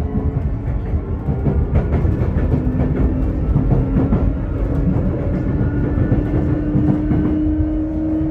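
Sotetsu 8000 series electric train heard from inside a motor car: the VVVF inverter and traction motor whine climbing slowly in pitch as the train gathers speed, over a low rolling rumble and occasional wheel knocks on rail joints.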